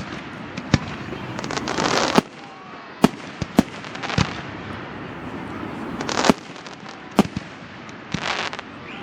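Fireworks display: sharp single bangs of aerial shells bursting at irregular intervals, several of them in quick succession around the middle. Three times a hissing, crackling swell builds up and cuts off suddenly.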